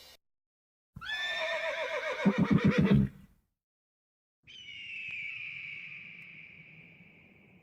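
A horse whinny sound effect: a high call that slides down and breaks into a rapid low fluttering, about a second in. From about halfway, a separate high ringing tone sounds, dips slightly at its start and slowly fades.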